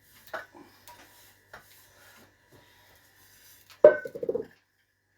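Handling noises at a work surface: light clicks and rubbing, then one sharp knock with a brief ring about four seconds in, like a hard object set down.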